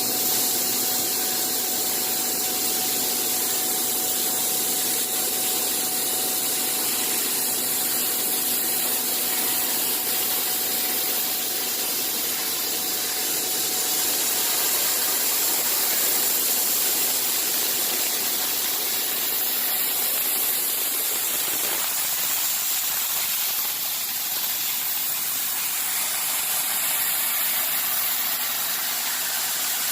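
CNC machine running with a steady hiss and a steady hum, the hum and part of the lower noise dropping out about two-thirds of the way through.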